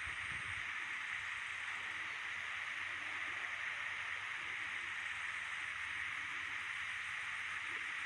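Steady rushing of a stream's flowing water, an even hiss with no breaks.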